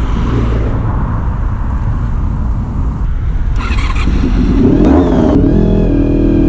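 Honda VFR400 NC30's V4 engine through a GP exhaust while riding, first a rough low rumble mixed with rushing noise. About five seconds in, a clear, steady engine note comes through.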